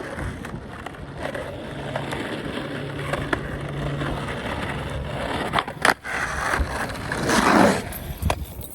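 Skateboard wheels rolling on pavement with a steady low hum, then sharp wooden clacks about six seconds in as the board is popped and lands, followed by a loud scraping rush and one more clack near the end.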